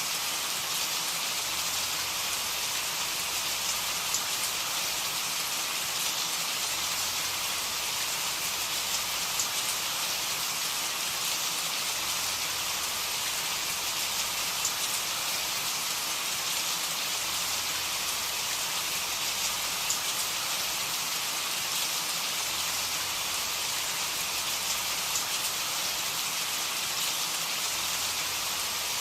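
Steady rain, a constant hiss with scattered small drop ticks.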